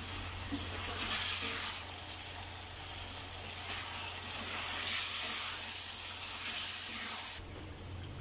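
Chicken and potato curry sizzling in a steel pan as it is fried down with splashes of water and stirred with a spatula, the water cooking off into the spices. The sizzle swells about a second in and again from about five seconds, then drops suddenly to a quieter hiss near the end.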